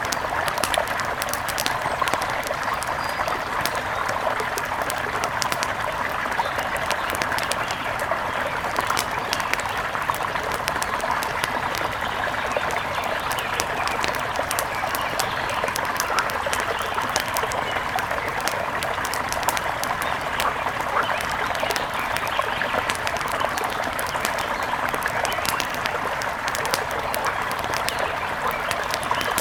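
Steady rush of a mountain river flowing over rocks, a constant even wash of water noise with many small sharp ticks scattered over it.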